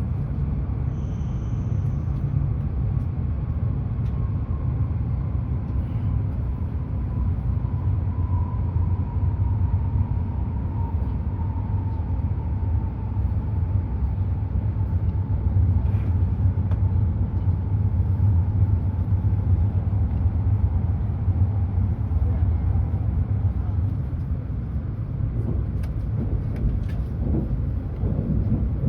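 Hokuriku Shinkansen train running at speed, a steady low rumble, with a faint whine that slowly falls in pitch over most of the stretch.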